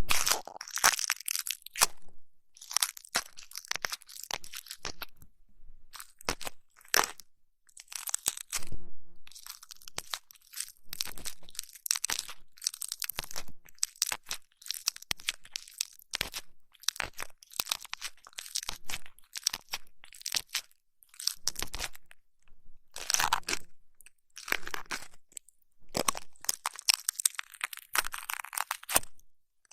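ASMR ear massage and ear cleaning sounds: crunchy, crackling rubbing and scratching that comes in short irregular bursts with brief pauses between them.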